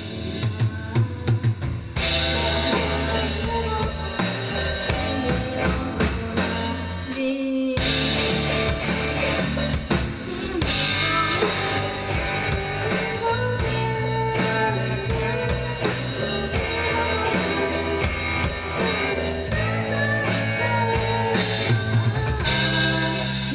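Three-piece rock band playing live: electric guitar, bass and drum kit in an instrumental passage between sung verses, with hard-hit drum fills near the start and the bass and drums dropping out briefly about seven seconds in.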